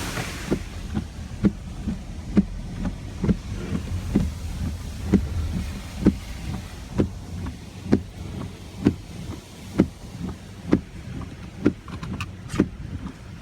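Car running with a low rumble, with a short click or knock repeating evenly about once a second.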